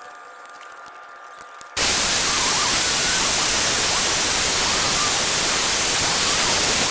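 Loud, even hiss like static that starts abruptly about two seconds in, after a quieter stretch with a faint steady tone.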